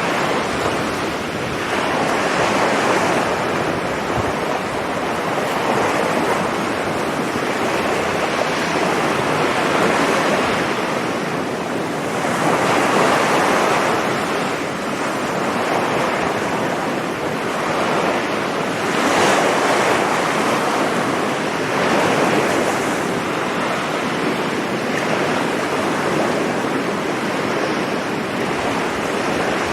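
Sea surf breaking on a sandy beach: a continuous wash of waves, swelling as each one comes in and easing off, every three to four seconds.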